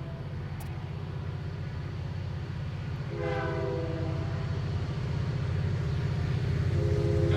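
Approaching passenger train led by an EMD GP40-2 diesel locomotive, its engine rumbling and growing steadily louder. The locomotive horn sounds a short blast about three seconds in and starts a longer blast near the end.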